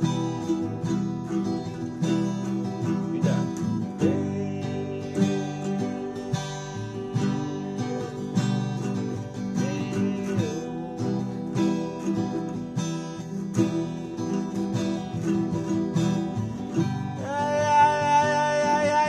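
Mini acoustic guitar strummed in a steady rhythm of chords. Near the end a long held note with many overtones comes in loudly over the strumming.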